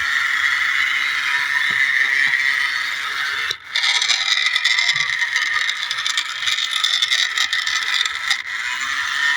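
Remote-control toy tractor's small electric motor and gearbox whining steadily, with scraping and rattling as it drives over rough ground. The sound drops out briefly about three and a half seconds in, then comes back with more clatter.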